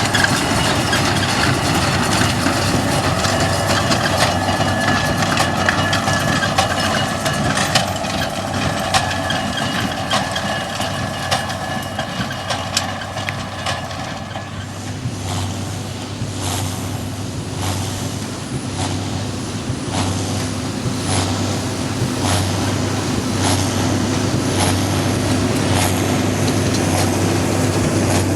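A heavy vehicle running with a steady low hum. From about halfway through, sharp clicks repeat about once a second.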